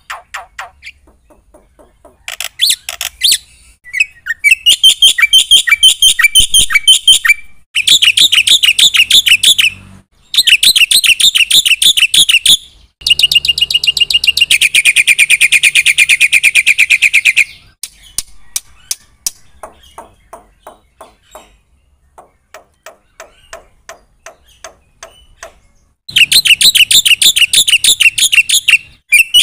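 Black-winged starling (jalak putih) singing in full voice, its song full of fill-in phrases: loud runs of fast repeated chattering notes lasting several seconds each, with short gaps between. About halfway through there is a quieter spell of quick clicking notes, and then a loud run begins again near the end.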